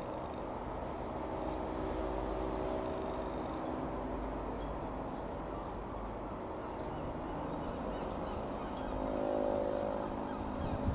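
Van's RV-12 light aircraft's four-cylinder Rotax piston engine and propeller running steadily, with a hum that swells about nine seconds in.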